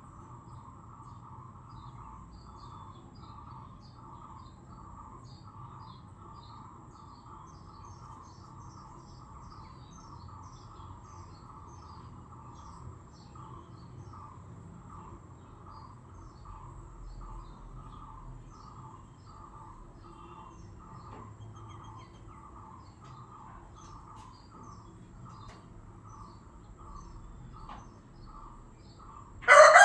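A quiet, steady pulsing chirr repeating just under twice a second, with faint small-bird chirps above it. Right at the end a rooster bursts into a loud crow.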